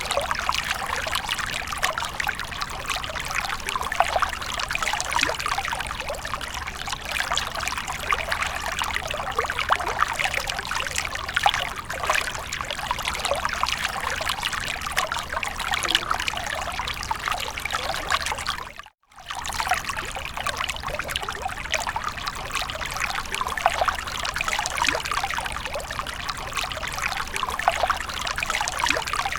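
Fountain water splashing and trickling steadily. The sound cuts out for a split second about two-thirds of the way in, then resumes.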